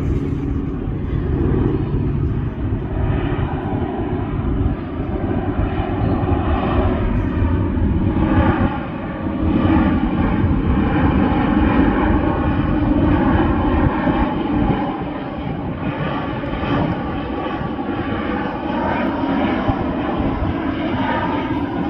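Airplane engines running loud and steady. They swell to their loudest in the middle and ease off a little in the last part.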